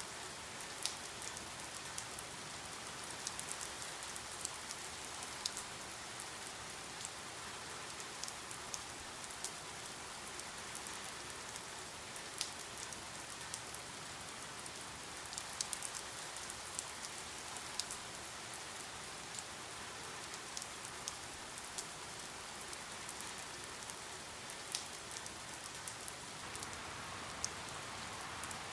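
Steady rainfall: an even hiss of rain with many separate drops ticking sharply on a surface.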